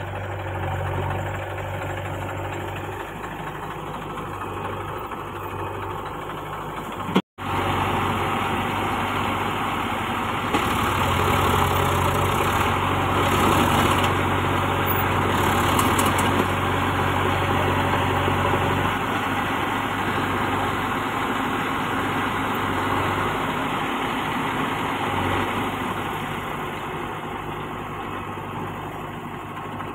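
Heavy diesel machinery engine running steadily, growing louder for several seconds in the middle. The sound cuts out for an instant about seven seconds in.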